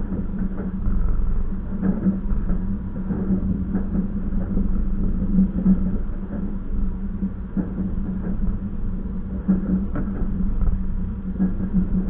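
Passenger train running along the track, heard from inside a carriage: a steady low rumble and hum with scattered clicks and knocks from the wheels and the car body.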